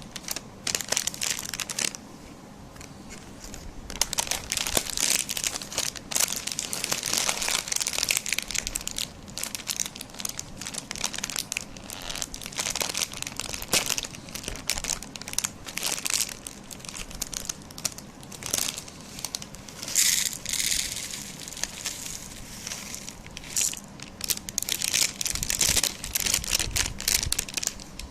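Dense, irregular crinkling and crackling of some material being crushed, in runs of sharp crackles with short lulls.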